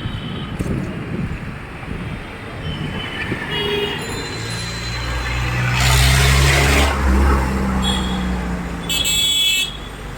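Road traffic: a heavy vehicle's engine rumbles past, loudest about halfway through, and a horn toots briefly near the end.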